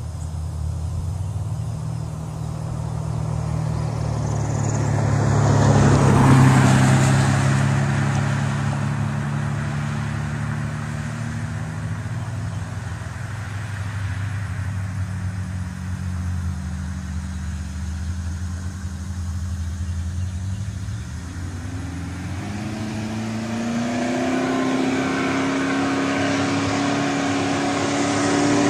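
Engine of a General Lee replica Dodge Charger running, with a loud swell about six seconds in. About 22 seconds in it revs up and holds high revs, as for a burnout, then drops off sharply near the end.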